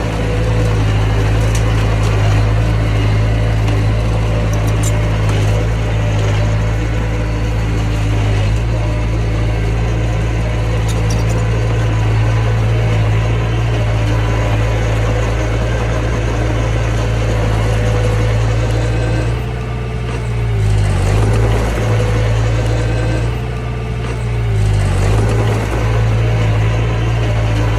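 Mini bulldozer's diesel engine running steadily. Twice in the last third its note dips briefly and then recovers.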